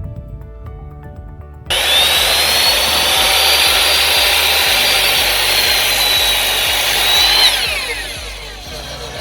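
Electric compound miter saw switched on, its blade whining high and steady while it cuts through wood for about six seconds. Then it is switched off and spins down under its brake, the whine falling steeply in pitch. Background music plays underneath.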